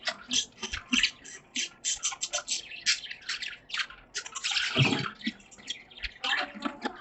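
Budgerigars chirping and chattering: a quick, irregular string of short chirps, with one louder burst about two-thirds of the way through.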